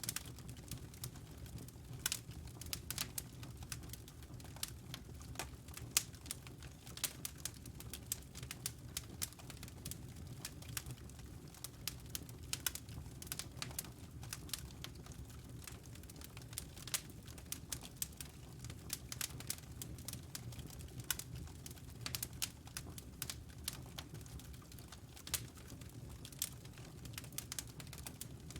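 Wood logs burning in a fireplace: constant irregular crackles and sharp pops over a low steady rumble, with the loudest pop about six seconds in.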